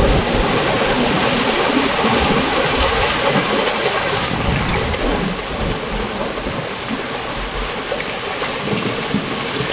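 Loud, steady rush of storm water from cyclone rain and flooding, with an uneven low rumble underneath, easing slightly about halfway through.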